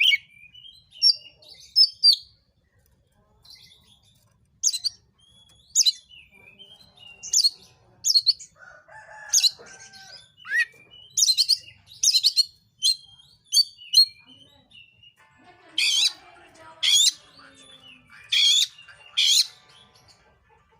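Oriental magpie-robin (kacer) singing in full voice: loud, sharp, high whistled notes about a second apart, with scratchy chattering phrases in between.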